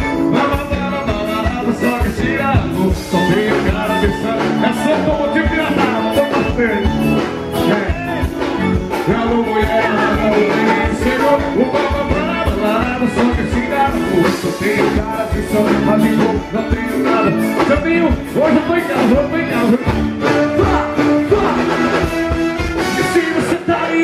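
A forró band playing live, with singing over a fast, steady beat.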